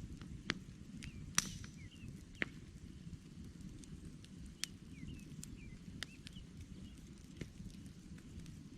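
Wood campfire burning: a low steady rumble with irregular sharp crackles and pops, the loudest about one and a half seconds in. Faint bird chirps sound behind it.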